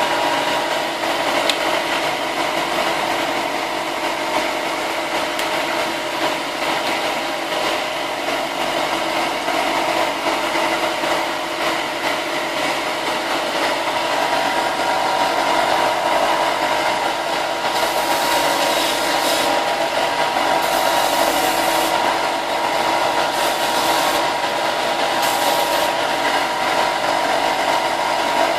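A power sander runs steadily while sanding the cut edges of plastic armor parts to straighten them. From about two thirds of the way in, a harsher hiss comes and goes in stretches as the abrasive bites.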